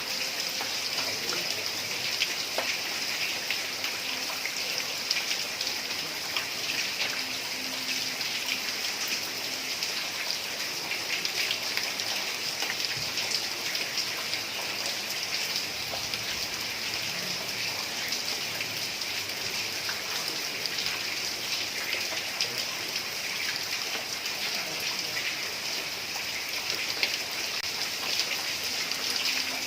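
Heavy rain falling steadily on a tiled roof, a dense patter of drops.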